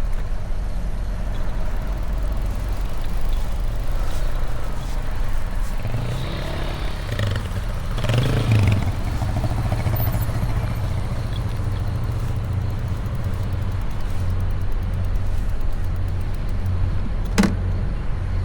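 Steady low rumble of vehicle and ship engines at a ferry terminal. A vehicle swells louder as it passes around the middle, and there is one sharp click near the end.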